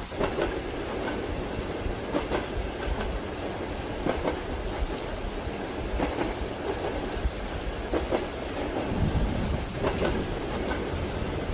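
Train wheels clacking over rail joints every second or two inside a compartment, over steady rain. A low rumble swells about nine seconds in.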